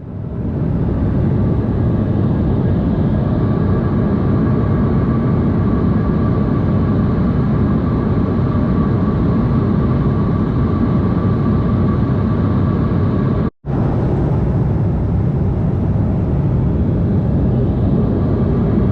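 Steady cabin noise of an Embraer E190 airliner in flight: a constant low rumble of engines and airflow, with a faint steady high tone on top. It cuts out for a split second about two-thirds of the way through, then resumes unchanged.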